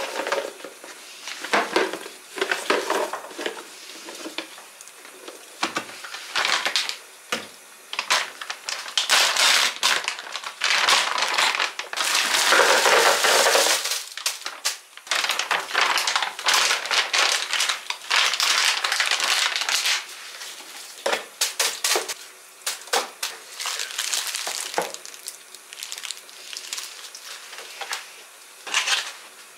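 Packaging crinkling and rustling as items are handled, with scattered clicks and knocks. The loudest stretch of crinkling, lasting about two seconds, comes in the middle.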